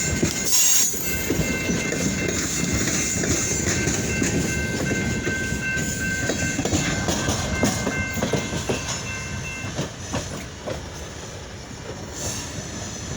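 Freight train cars rolling past, wheels clattering over the rail joints, with a thin high-pitched wheel squeal for most of the passage. The clatter grows fainter near the end.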